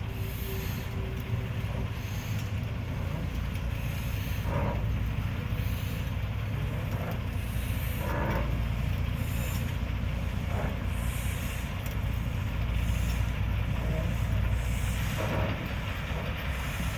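Railroad locomotive moving slowly: a steady low rumble with soft hissing puffs about every second or two, and a few short, sharper sounds from the running gear or air system.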